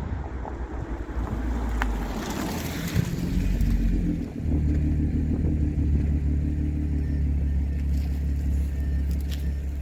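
B8.5 Audi S4's supercharged 3.0-litre V6 through an AWE Touring cat-back exhaust, the car under way. The engine note builds, dips briefly about four seconds in, and then settles into a steady low drone.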